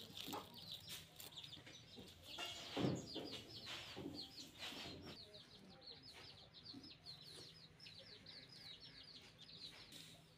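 Birds chirping: a rapid string of short, high, falling chirps at about four or five a second through the second half. A few louder brief noises come in the first half, the loudest about three seconds in.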